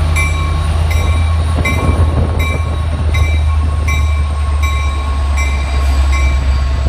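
Norfolk Southern SD80MAC diesel-electric locomotive passing at close range, its 20-cylinder engine making a loud steady low drone, with a steady whine over it. Short clicks repeat about every 0.7 s as the train's wheels roll by.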